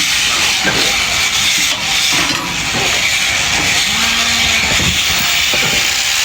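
Electric sheep-shearing handpiece running steadily, its cutter buzzing and hissing as it works through fleece.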